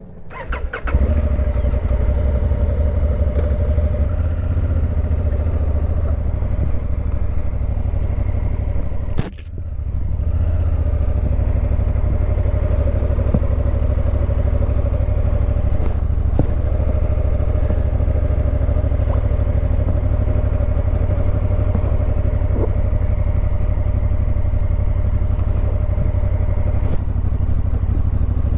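Motorcycle riding, its engine running at a steady note with a low rumble, heard from on the bike; a 2019 Honda Africa Twin CRF1000L parallel-twin. A sharp click and a brief drop about nine seconds in, then the same steady running.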